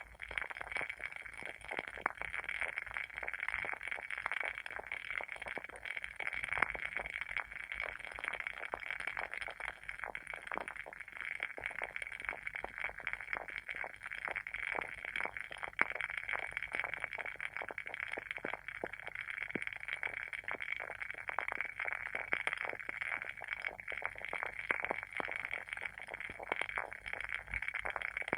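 WoodWick candle's wooden wick burning, crackling continuously with many small irregular pops over a soft steady hiss.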